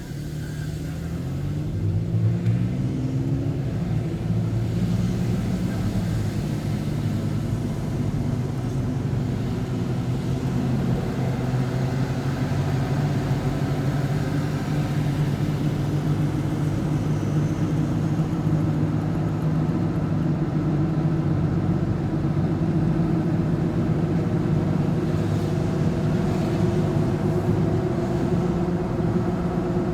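Vehicle engine accelerating, its pitch and loudness climbing over the first few seconds, then running at a steady cruising drone.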